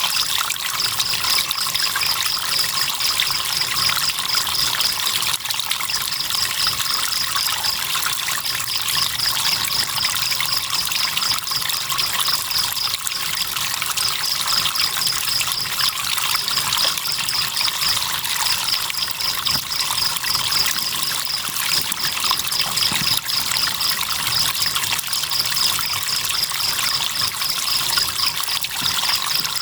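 River water trickling and flowing steadily, with crickets chirping in a high, rapid pulsed trill that runs in stretches and breaks off briefly every few seconds.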